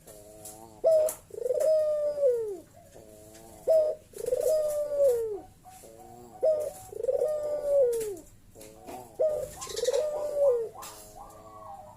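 A puter (Barbary dove) cooing over and over, giving its deep bekur call about every two to three seconds: a short note and then a long arching coo.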